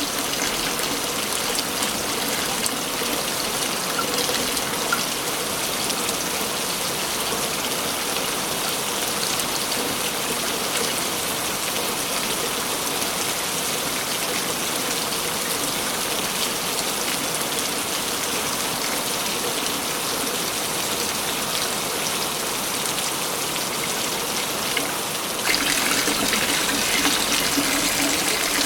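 Waterfall rushing steadily, a continuous dense roar of falling water. About 25 seconds in, the sound abruptly becomes louder and brighter.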